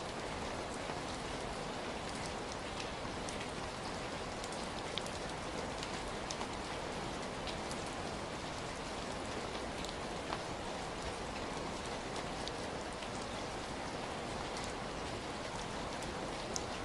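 Steady rainfall, an even hiss with many individual drops ticking sharply against nearby surfaces.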